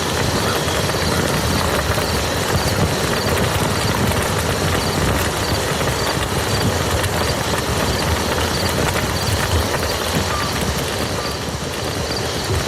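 Rain falling steadily on a muddy field, a dense, even patter of drops.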